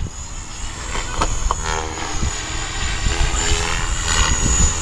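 Align T-Rex 550E electric RC helicopter in flight, its rotor and motor whine shifting in pitch as it manoeuvres, with strong wind buffeting the microphone.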